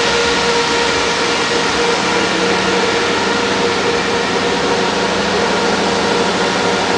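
Cadillac Escalade ESV stretch limousine's 6.2-litre V8 idling steadily: a constant hum with a few held tones and no change in speed.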